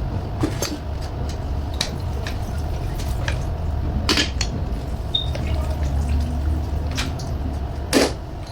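Scattered clinks and knocks from hard parts and tools being handled, about seven in all with the loudest near the end, over a steady low rumble.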